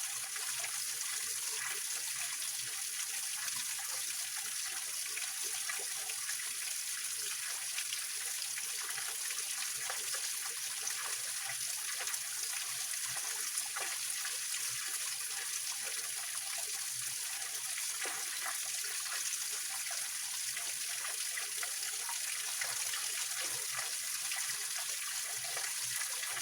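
Small waterfall in a rocky mountain stream: water pouring and splashing over rocks in a steady rush with a trickling, splashy texture.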